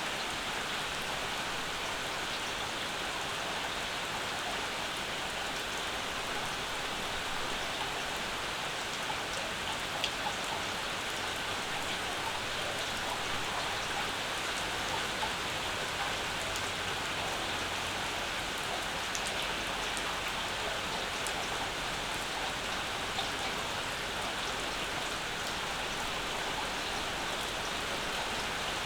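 Steady summer rain falling, an even hiss with a few sharper single drop ticks now and then.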